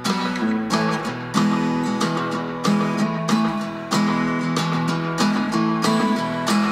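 Background music: a strummed acoustic guitar playing chords at a steady, even rhythm.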